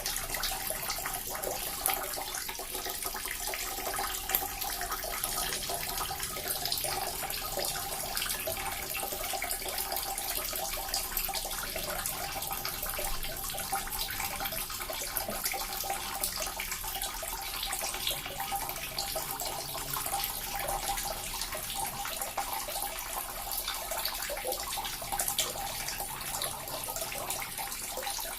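Small water fountain running steadily: water splashing and trickling into a basin.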